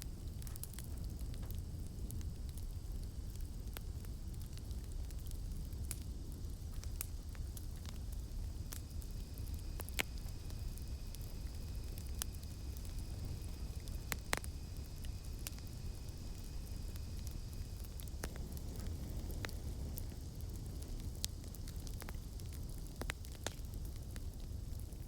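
Campfire crackling: scattered sharp pops over a low, steady rumble of burning wood. A faint, high, steady insect drone sits in the background and is clearer in the middle.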